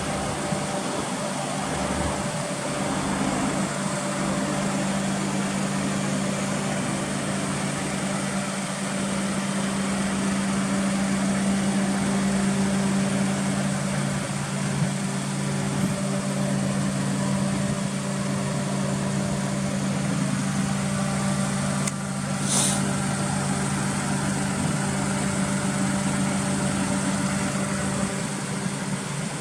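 Daihatsu Esse's three-cylinder engine idling steadily through an aftermarket HKS muffler. There is one short, sharp noise about three quarters of the way through.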